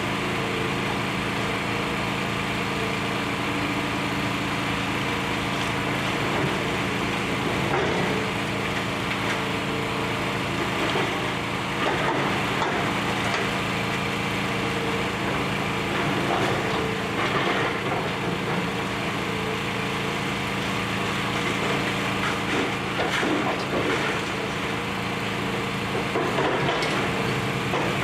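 Hydraulic excavator engine running steadily during building demolition, with irregular crunching and cracking of debris being broken up.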